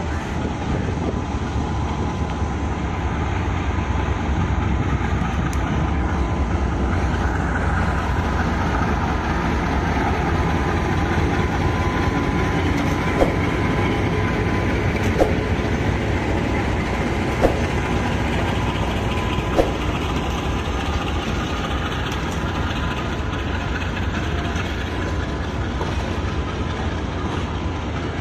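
A passenger train departing, with the diesel locomotive's engine running as it passes and the coaches rolling by with a steady noise of wheels on rail. About halfway through there are four sharp clicks, about two seconds apart.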